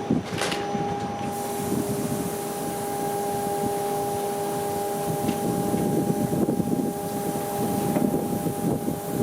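Electric push-pull commuter train, a BB 27300 locomotive pushing VB2N double-deck coaches, pulling away from a station: a steady high two-note electrical hum over a rumble of wheels that grows as the train gathers way, with a clunk just after the start.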